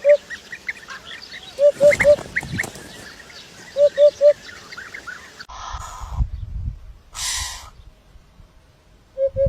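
Birds calling: a low three-note call repeats about every two seconds over scattered higher chirps. About five and a half seconds in, the sound changes abruptly to short noisy bursts and low thumps, and the three-note call comes back near the end.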